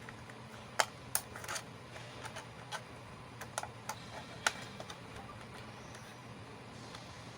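Small plastic miniature toy pieces being handled, giving an irregular series of sharp clicks and taps, with the loudest about a second in and near the middle; the clicks stop after about five seconds.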